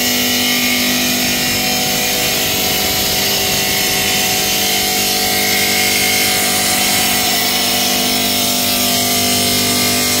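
Stone-cutting machine running steadily: a loud mechanical hum with several held tones under a strong, even hiss.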